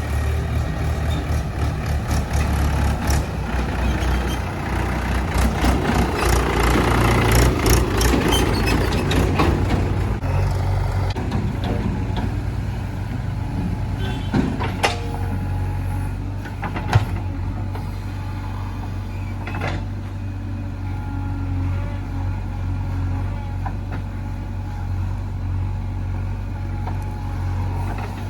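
Diesel engine of a JCB 3DX backhoe loader running steadily. A run of clattering knocks comes in the first ten seconds, and a few single sharp knocks come later.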